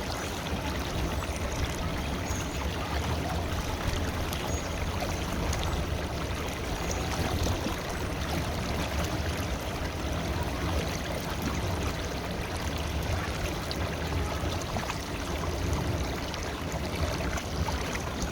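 Flowing river water: a steady, even rush with a strong low rumble underneath.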